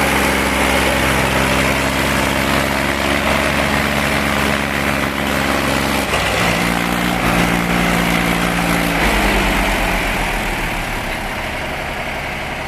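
Diesel tractor engine running steadily. Its note changes about six seconds in and again about three seconds later.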